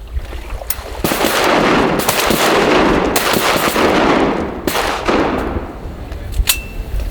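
Several hunters' shotguns firing a volley at ducks: about half a dozen shots over five seconds, overlapping and echoing, then a single last shot near the end.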